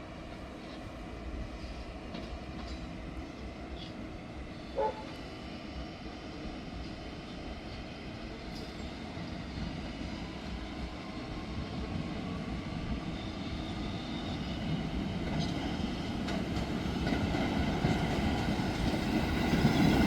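Staten Island Railway train approaching, its rumble steadily growing louder, with a faint rising whine in the second half. A brief high squeak comes about five seconds in.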